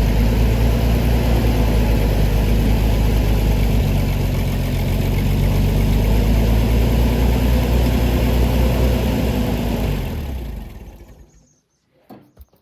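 An engine runs steadily at idle, then is switched off about ten seconds in and runs down to silence over a second or so.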